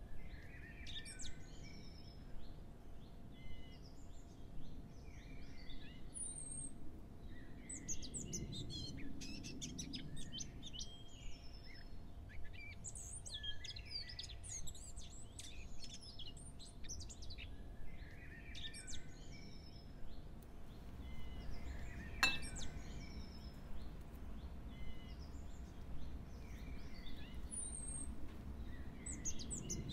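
Several birds chirping and singing in short, repeated phrases and trills, over a faint steady hum, with one sharp click about two-thirds of the way through.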